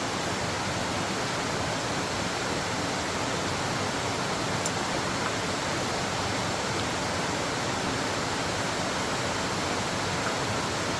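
Steady, even rushing of water, an unbroken hiss with no rhythm or breaks.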